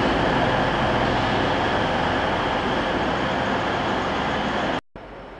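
TransPennine Express diesel multiple unit running along the platform with a steady noise of engine and wheels. Near the end the sound cuts out abruptly and comes back much quieter.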